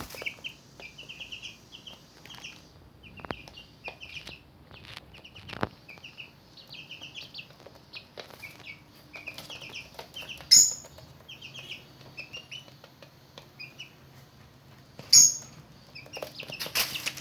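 Month-old chicks peeping over and over in short high chirps, with scattered light clicks. Two brief louder noisy bursts come about ten and fifteen seconds in.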